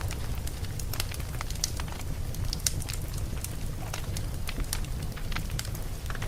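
Campfire burning: wood crackling with frequent irregular sharp pops and snaps over a steady low rumble.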